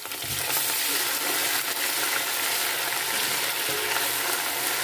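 Garlic, ginger, green chillies and crushed coriander frying in hot oil with browned onions, sizzling steadily.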